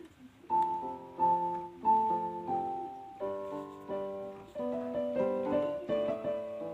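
Background piano music: a gentle melody of single notes and chords, each struck note decaying before the next.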